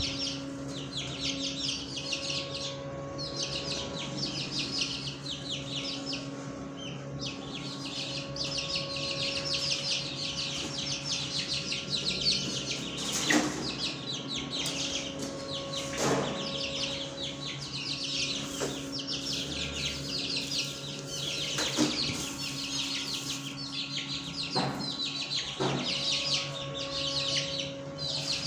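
A flock of small cage birds chirping and twittering continuously, many calls overlapping, over a steady low hum. A few short knocks sound at intervals.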